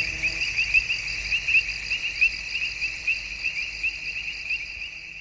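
Cricket chirping: a steady train of short, high chirps, about four a second, fading out near the end.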